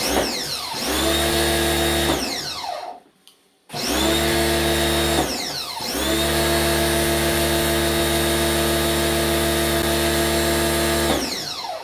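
An electric motor-driven machine runs steadily in two stretches, about three seconds, then after a short stop about seven more, with a steady hum and a hiss over it.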